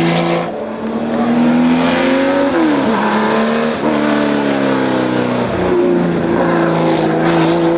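Porsche competition car engine revving hard as it accelerates, its pitch climbing and then dropping sharply at several gear changes.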